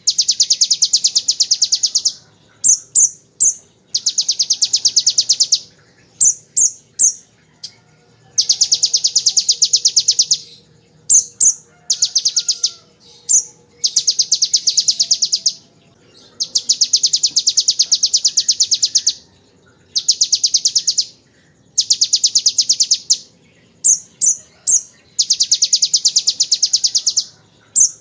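Kolibri ninja sunbird singing prinia-like 'ngebren' phrases: fast machine-gun rattles of high notes, each about one to two and a half seconds long, repeated with short pauses and broken up by quick groups of two or three sharp high chips.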